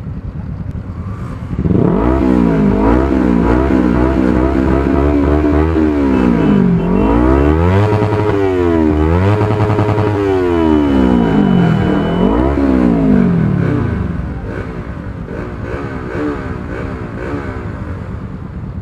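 Motorcycle engines revving and accelerating, their pitch rising and falling again and again, loud from about two seconds in. Around fourteen seconds in they drop to a quieter run, still rising and falling.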